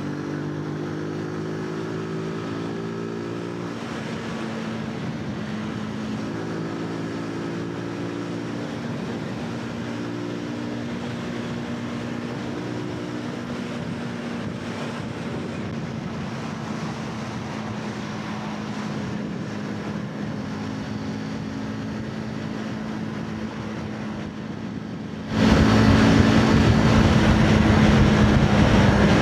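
Zontes 125 motorcycle's single-cylinder engine running under way, its pitch shifting now and then with the throttle. About 25 seconds in it suddenly gets much louder, with a strong rush of wind noise.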